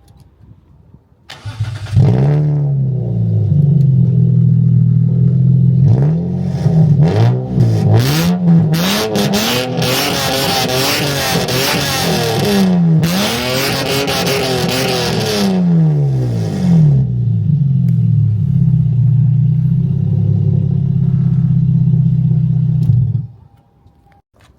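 Toyota Chaser's 1G-FE two-litre straight-six through a loud aftermarket muffler. It starts and settles to a steady idle, is blipped up and down repeatedly for about ten seconds, then idles again and is switched off a second or so before the end.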